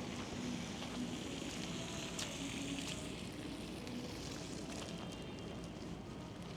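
Outdoor street ambience in a snowstorm: a steady hiss with scattered faint crackles.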